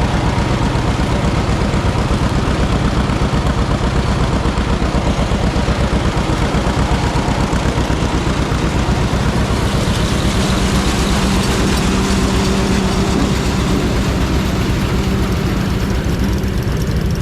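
Tractor engine running steadily with an even firing beat; a steady hum joins in about ten seconds in.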